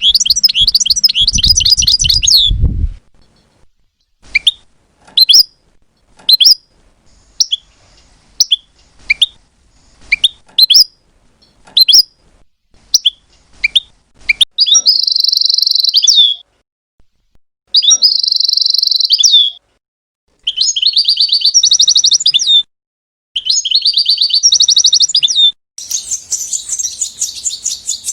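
European goldfinch singing: a rapid twittering trill, then a run of single sharp chirps about a second apart, then four buzzy, trilled phrases of about two seconds each with short pauses between, breaking into dense continuous twittering near the end.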